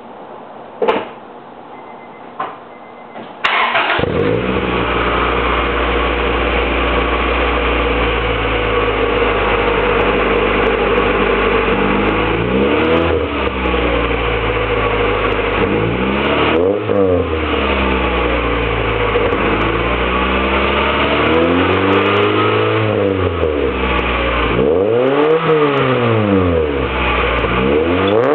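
A 1998 Acura Integra GSR's 1.8-litre VTEC four-cylinder, breathing through custom 2.25-inch piping and a Magnaflow muffler with the stock cat and resonator. A few clicks come first, then the engine starts about three and a half seconds in and idles steadily. From about twelve seconds in it is revved about six times, each rev rising and falling in pitch.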